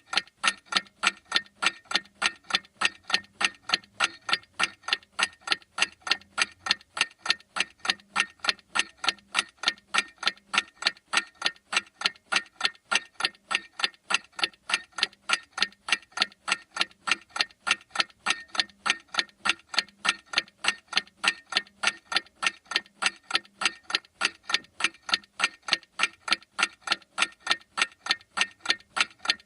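Mechanical clock ticking at a steady, even rhythm of sharp ticks, about two a second.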